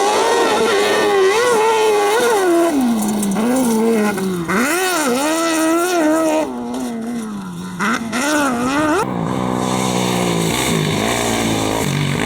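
Competition car engine revving hard on a dirt slalom course, its pitch climbing and dropping again and again through throttle lifts and gear changes. About nine seconds in it rises quickly and cuts off, and a lower, steadier engine note takes over.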